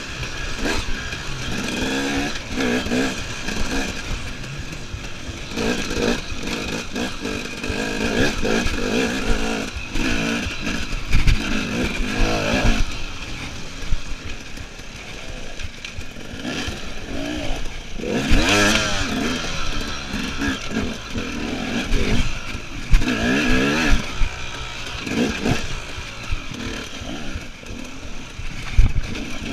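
KTM EXC enduro motorcycle engine revving up and dropping back again and again as it is ridden, with scattered knocks and rattles from the bike.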